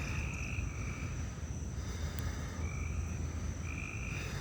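Frogs calling after rain: short buzzy croaks about half a second long, repeating every second or so, over a steady low rumble.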